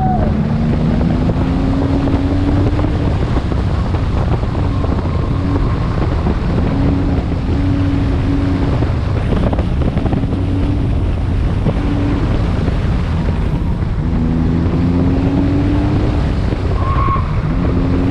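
Car engine on an autocross run, climbing in pitch as it accelerates near the start and again later, with the throttle coming off and on between, over wind noise on the microphone.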